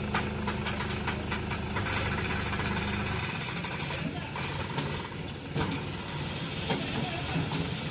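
Sonalika RX 35 tractor engine running steadily, then cutting off about three seconds in, with rattling and clicking over it.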